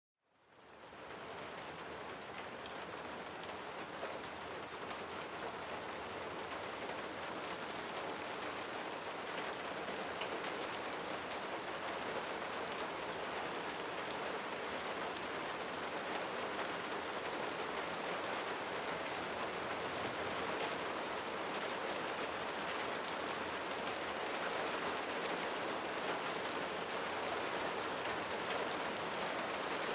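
Steady rain falling on leaves, a dense even patter with many separate drops ticking. It fades in from silence at the start and grows slightly louder over the stretch.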